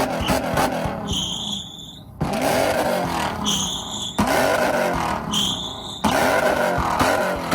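Car engine revving hard, broken three times by a short high-pitched tyre squeal, each under a second and about two seconds apart. The engine noise cuts back in sharply after each squeal.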